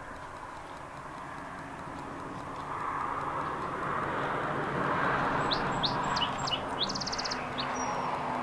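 A songbird calls in the second half: a run of quick, high, downward chirps, then a fast buzzy trill and one last note. Under it, a soft rushing noise swells and fades.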